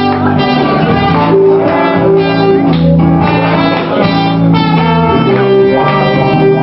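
Live band playing instrumental music, with guitar prominent and a rhythm of sharp accents under sustained notes.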